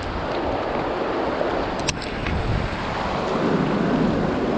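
Steady rush of river water with wind buffeting the microphone in a low rumble, and a single sharp knock about two seconds in.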